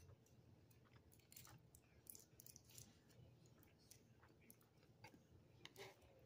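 Faint chewing: scattered soft mouth clicks and smacks of someone eating.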